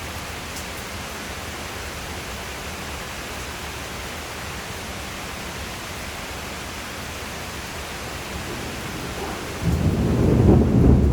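Steady rain hissing, then near the end a sudden loud thunderclap that breaks into a deep rolling rumble.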